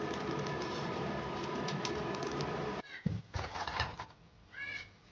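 A steady machine-like whir with a faint hum cuts off suddenly about three seconds in. A few light knocks follow, then a short bird-like call near the end.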